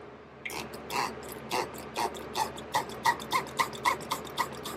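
Hand spray bottle pumped rapidly, squirting water into a cylinder-head port, about four short wet squirts a second starting about half a second in.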